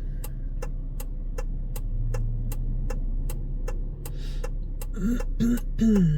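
Car turn-signal indicator ticking steadily, about three clicks a second, over the low hum of the idling car, while waiting to turn. Near the end a person's voice makes a few short sounds.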